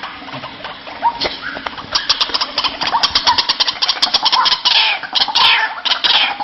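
White-breasted waterhen calling: weak calls at first, then a rapid run of sharp notes at about eight a second from about two seconds in, turning into harsh falling calls near the end.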